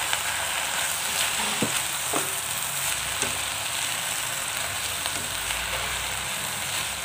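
Spinach leaves sizzling in hot oil with sautéed garlic, shallots and chili as they are stirred with a wooden spatula, a steady hiss with a few light knocks of the spatula against the pot.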